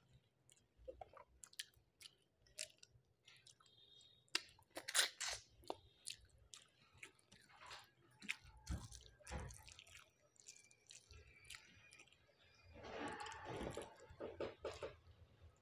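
A person eating a rice-and-fish meal close to the microphone: scattered crisp crunches and bites with chewing, and a denser run of chewing noise about thirteen seconds in.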